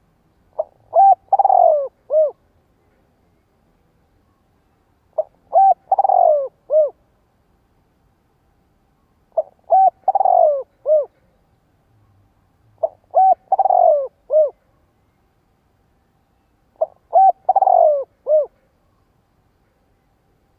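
Spotted dove cooing: five alike phrases about four seconds apart, each a short coo, two quick notes, a longer falling note and a last short coo. It is the male's cooing call that keepers play as a decoy to draw in wild doves.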